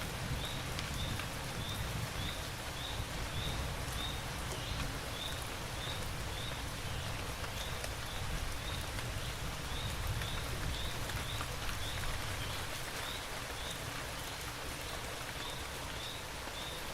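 Steady rain falling, heard as an even hiss of drops. Over it, a short high chirp repeats about twice a second.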